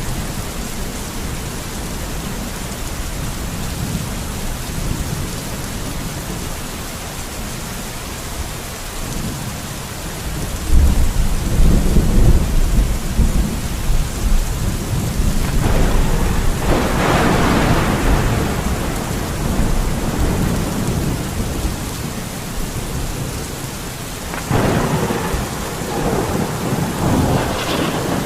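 Steady rain falling as a constant hiss. About ten seconds in a deep low rumble swells up, and the rain surges louder twice in the second half.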